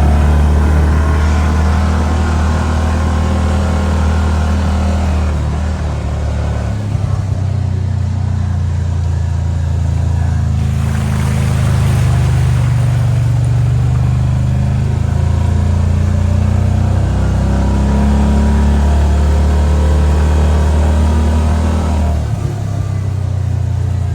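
Kawasaki side-by-side's engine running under way, its pitch rising and falling a little as it drives along.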